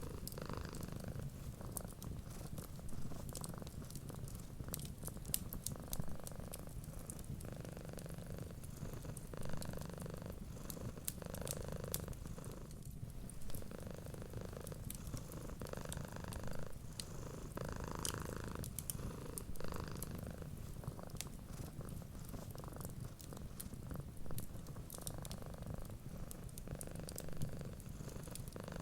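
A domestic cat purring steadily, the purr swelling and easing every couple of seconds, over frequent sharp crackles and pops from a wood fire.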